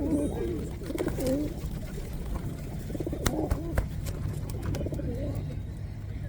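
Pigeons cooing in several short wavering bursts at close range, with a few sharp clicks in the middle and a steady low rumble underneath.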